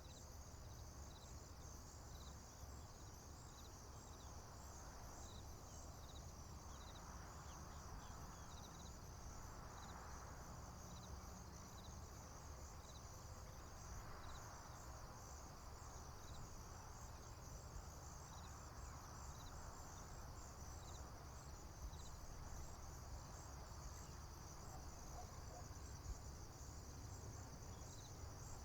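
Faint chorus of crickets and other insects in a field: a steady high pulsing trill, with a separate short chirp repeating about once a second, over a low steady rumble.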